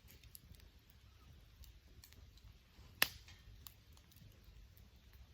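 Wood fire crackling: scattered small ticks and snaps, with one sharp pop about three seconds in.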